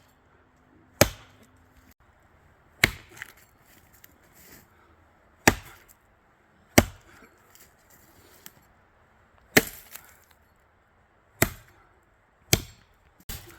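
Short-handled axe chopping wood: eight sharp strikes at uneven intervals of one to two and a half seconds.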